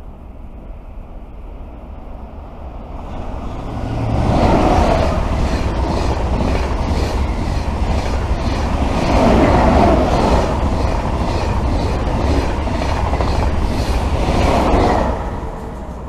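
A train passing through the station. Its noise builds over the first few seconds and stays loud for about eleven seconds, with a rhythmic clatter of wheels over rail joints, then falls away near the end.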